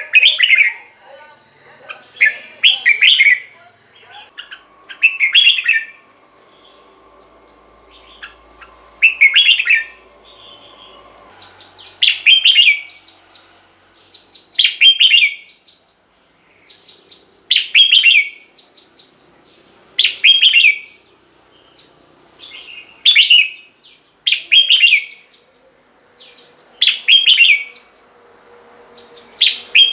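Red-whiskered bulbul singing: about a dozen short, clear song phrases, each repeated every two to three seconds.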